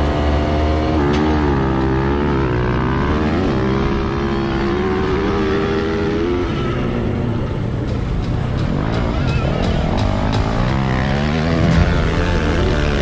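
Dirt bike engine revving, its pitch rising and falling again and again, with a lull in the middle before it revs up once more.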